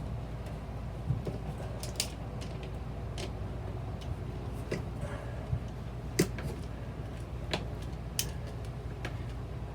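Scattered sharp clicks and light taps, about eight in all at uneven spacing, from tightening a worm-gear hose clamp on an RV toilet's flush valve and handling its plastic parts, over a steady low hum.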